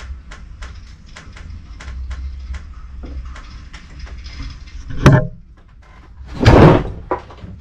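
Footsteps, about three a second, while a person moves through a scrapped airplane's cargo hold. Then a sharp bang about five seconds in, and a louder, longer thud a second and a half later.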